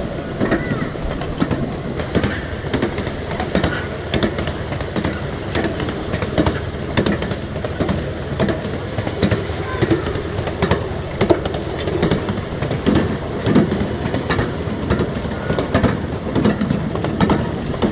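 7¼-inch gauge miniature railway train running on its track, a steady rumble with frequent irregular clicks and knocks from the wheels on the rails.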